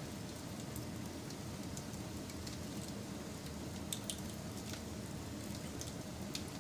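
Wood fire crackling: a steady low rumble of burning with scattered sharp pops and snaps, a couple of louder pops about four seconds in.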